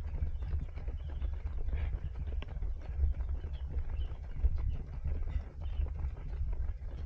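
Running footsteps of a group of runners, many short taps, over a steady low rumble of wind and movement on a body-worn action camera's microphone.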